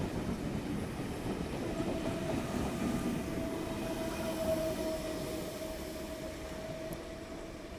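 V-set intercity electric train running past on the rails: a steady rumble with a thin, steady whining tone from about two seconds in, growing slightly quieter near the end.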